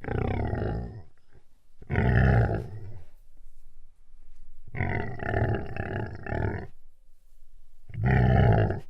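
A roaring animal sound effect: four rough, loud roars in a row, each about a second long except the third, which lasts about two seconds.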